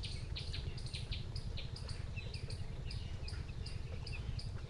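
A flock of 13-day-old broiler chicks peeping: many short, high peeps, several a second, over a steady low rumble.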